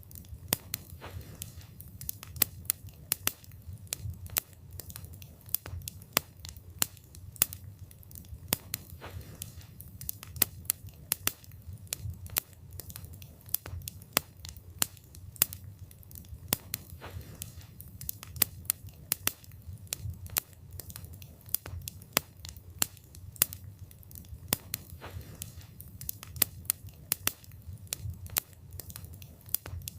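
Campfire burning: a low rumble of flames under frequent, irregular sharp crackles and pops of burning wood.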